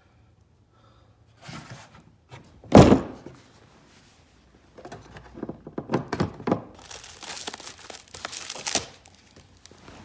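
A heavy thunk about three seconds in as the pedal drive is handled in its case, then a few seconds of plastic wrapping crinkling and rustling as it is unwrapped.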